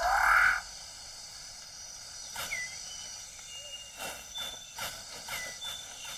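New Guinea rainforest birds calling: a loud, harsh call that rises in pitch opens, then short whistled notes and sharp chirps over the steady forest background.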